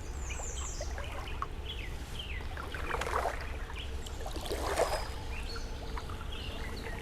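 Several songbirds chirping and calling around the water, with a quick falling run of high notes in the first second. About three and five seconds in come two soft water swishes at the canoe.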